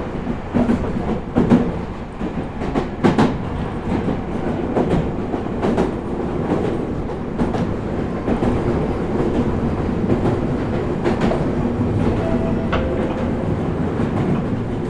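Inside a Meitetsu 4000 series electric commuter train running between stations: a steady rolling rumble with the wheels clicking over rail joints at uneven intervals, the clicks strongest in the first half.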